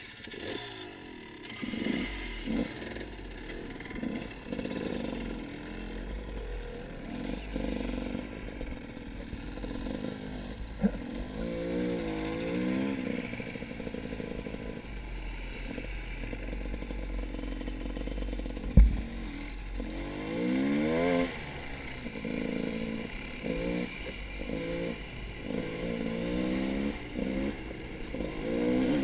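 A motor vehicle engine running and repeatedly revving up and down, over a low rumble. There is a sharp knock about two-thirds of the way through.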